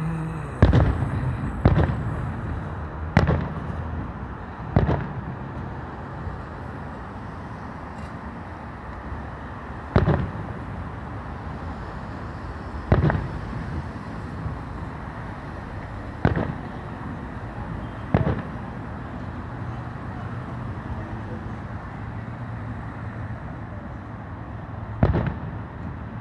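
Distant aerial firework shells bursting: about nine sharp booms at uneven intervals, each trailing off in a short echo, over a steady background hum.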